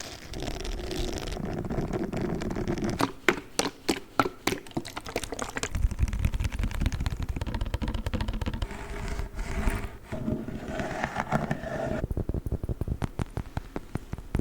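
Close-miked ASMR trigger sounds: objects handled right at the microphone in quick succession. A run of sharp taps and clicks comes a few seconds in, then scratchy rustling, then rapid clicking near the end.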